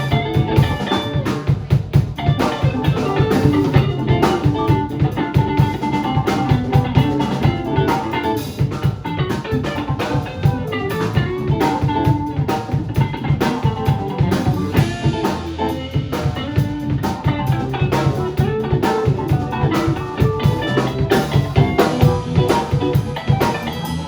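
Live band playing a rock song, with guitar over a steady drum-kit beat.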